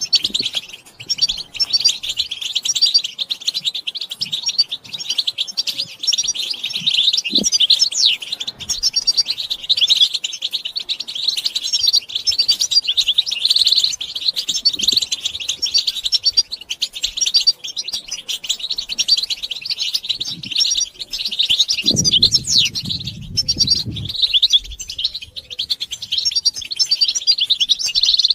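A group of European goldfinches twittering and calling without pause in quick, high chirps, the excited mating and readiness calls used to set a male goldfinch singing. A brief low rumble comes about three-quarters of the way through.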